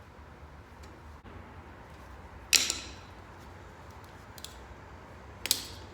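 Two sharp clanks about three seconds apart, each ringing briefly, with a few faint ticks between: parts knocking together as a motorcycle fuel tank and its mounting bracket are fitted by hand.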